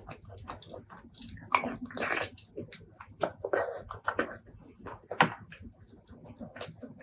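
Close-miked wet chewing and mouth smacking of a person eating spicy pork leg curry and rice, in many short irregular clicks and squelches, with a louder burst about two seconds in and a sharp smack a little after five seconds.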